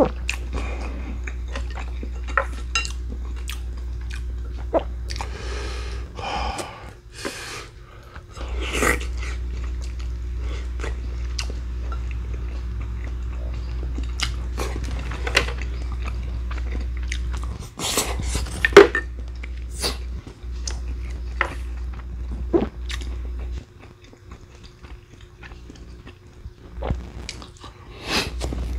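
A person chewing and biting food during a meal, with many short sharp clicks scattered throughout and one loud click a little after the middle. A steady low hum runs underneath and cuts out for a few seconds near the end.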